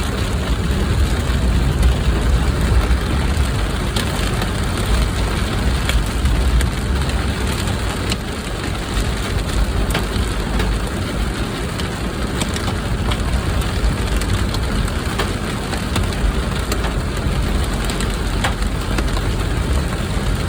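Torrential rain pelting down in a thunderstorm, with many scattered sharp taps of impacts over a steady rush and a low rumble that is heavier in the first half.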